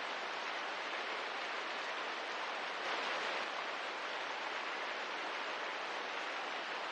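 Steady rain ambience, an even hiss with no distinct drops or crackles, swelling slightly about three seconds in.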